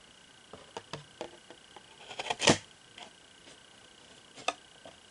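Sharp metal clicks and clacks from handling the Leatherman Hybrid folding pruner multitool, building to one loud snap about two and a half seconds in and a last click near the end.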